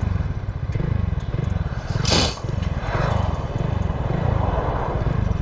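Motorcycle engine running under way, its pitch climbing and dropping again and again with throttle and gear changes, over a haze of riding noise. A short burst of noise stands out about two seconds in.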